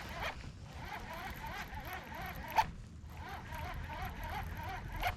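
Fishing reel being cranked to retrieve a chatterbait lure: a steady, rhythmic whirring from the turning handle and gears, with one sharp click about two and a half seconds in and a brief pause before the winding resumes.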